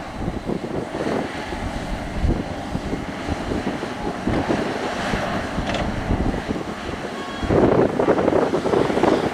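Excavator at work digging soil: diesel engine running under load with uneven rumbling and wind on the microphone, growing louder and denser for a couple of seconds near the end.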